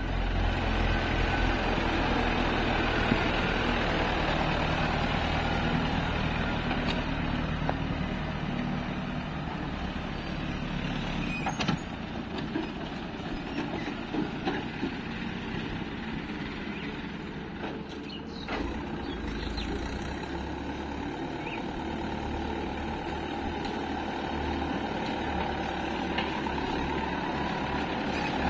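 Heavy diesel machinery of an excavator and tractors running steadily, with a few short knocks.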